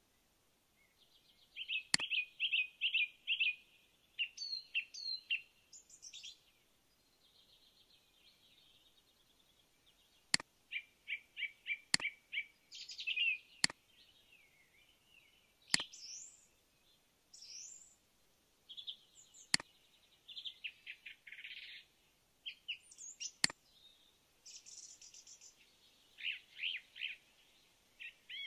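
Birds singing: many short chirps and fast trills, on and off throughout, with sharp single clicks every few seconds.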